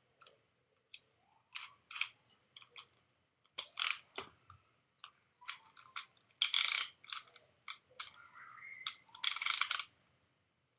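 Beyblade spinning tops clattering against each other: irregular sharp metal-and-plastic clicks, with two louder grinding scrapes, one about six seconds in and one near the end.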